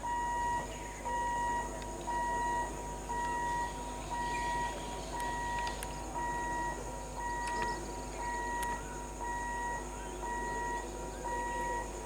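Electronic warning beeper sounding one steady-pitched beep about once a second, each beep about half a second long.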